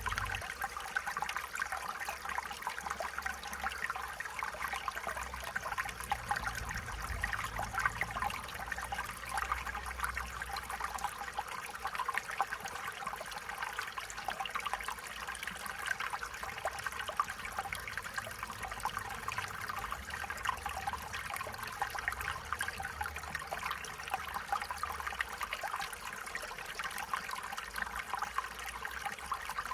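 Stream water trickling and babbling steadily over stones, with a faint low rumble underneath.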